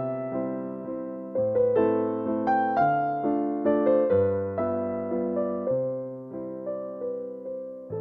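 Background piano music: a gentle melody of single struck notes, each fading away, over low bass notes that change every second or so.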